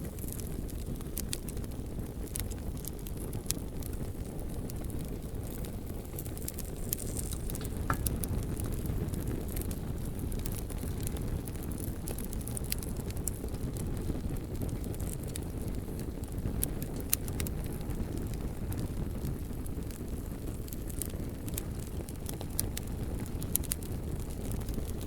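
Bonfire of burning logs, a steady low rumble of the flames with scattered sharp crackles and pops from the wood.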